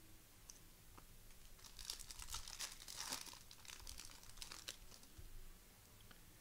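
Plastic wrapper of a trading card pack crinkling and tearing as it is ripped open by hand, starting about a second and a half in and dying away after about five seconds.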